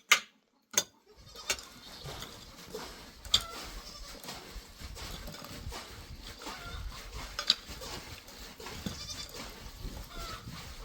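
Goats bleating now and then over outdoor background noise, after two sharp knocks in the first second.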